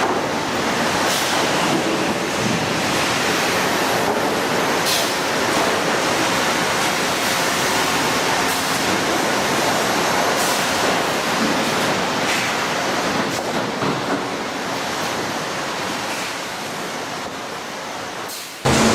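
Sawmill edging-line machinery running: a steady dense noise with a few faint knocks. It eases off slightly toward the end, and just before the end it cuts abruptly to a louder steady hum.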